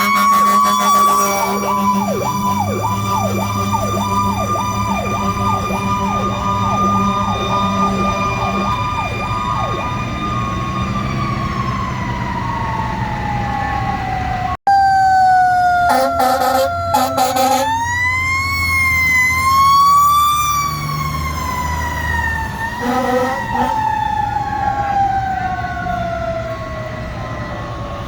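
Fire engine sirens: a mechanical siren wound up to a steady wail, with a faster electronic yelp siren over it for the first ten seconds, then coasting slowly down in pitch. After a cut come a few short air horn blasts, the siren winds up again and slowly winds down over a diesel truck engine rumble.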